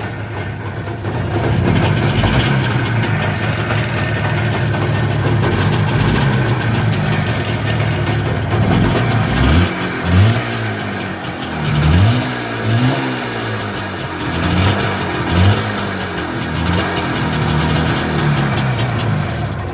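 IZh Jupiter 4 motorcycle's twin-cylinder two-stroke engine running steadily after about ten years of standing. From about halfway through, the throttle is blipped about half a dozen times, each rev rising and falling back.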